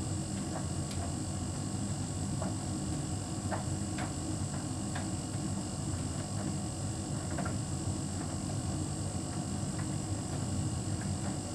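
Hotpoint heat pump tumble dryer running steadily, its drum turning with a low hum and a thin high whine, and irregular light clicks throughout as the load tumbles.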